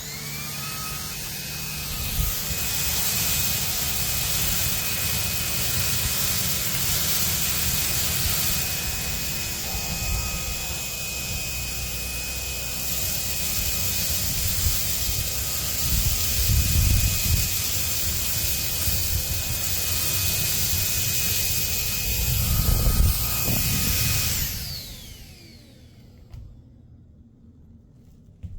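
Cordless stick vacuum cleaner's motor spinning up to a steady high whine with rushing airflow as it is pushed over hardwood and a rug, sucking up rice. About 24 seconds in it is switched off and winds down with a falling whine.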